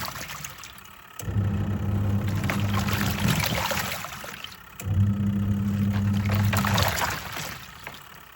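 Twin-tub washing machine's wash tub agitating: the motor hum starts about a second in, pauses briefly midway and stops again near the end as the pulsator reverses, over water sloshing in the tub.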